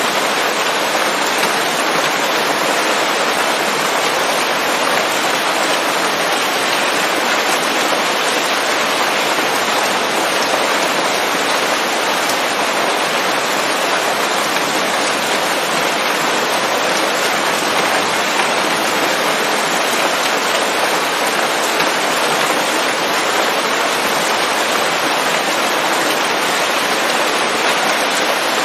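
Steady rain falling on leaves, an even hiss of drops with no thunder.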